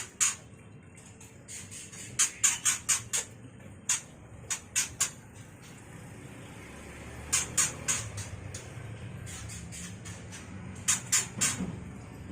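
White-rumped shama (murai batu) giving short, sharp, high chipping calls in quick runs of two to five, with pauses of a second or more between runs: the bird's mating call.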